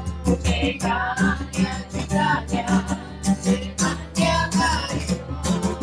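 Kirtan music: voices singing a devotional mantra over instrumental accompaniment with a steady rhythmic beat.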